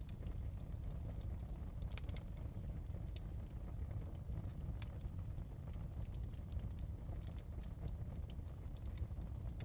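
Wood fire crackling in a fireplace: irregular sharp pops and snaps, scattered unevenly, over a steady low rumble.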